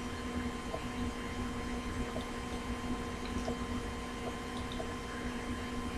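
Steady electrical hum with faint background hiss and a few very faint scattered ticks: room tone.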